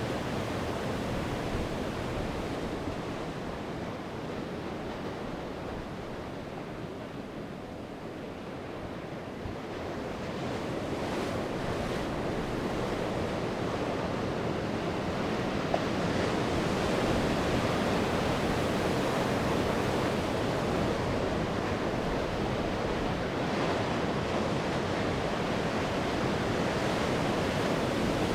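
Sea waves breaking and washing on the shore in a steady rush. The surf eases off a few seconds in, then swells again and stays fuller through the second half.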